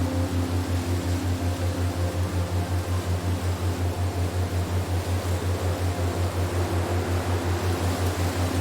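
Relaxation soundtrack of a steady wind-like hiss over a low hum that pulses about four to five times a second, with faint held higher tones drifting in and out.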